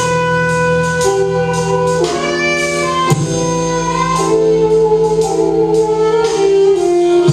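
A rock band playing an instrumental passage during rehearsal, with held notes that change about once a second and no singing.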